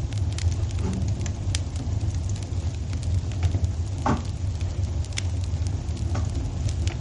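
Wood fire crackling in a fireplace: scattered sharp pops over a steady low rumble, with a brief falling whistle about four seconds in.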